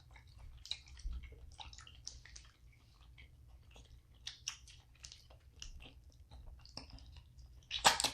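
Close-miked chewing and smacking of seafood boil, with many soft, irregular crunches and clicks and one louder crunch near the end.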